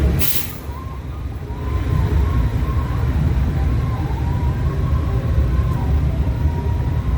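Motorcycle engines running with a steady low rumble, dipping briefly in loudness about a second in. A short burst of hiss comes right at the start.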